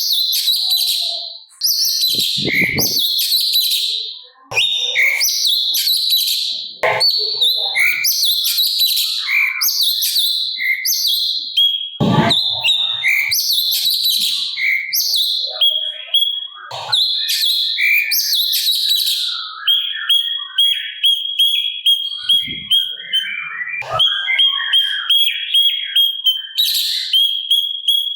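Cucak cungkok singing in rapid, busy bursts of rough, chattering phrases. About two-thirds of the way through the song gives way to a steady high note pulsing evenly about twice a second, with a few brief low thumps scattered throughout.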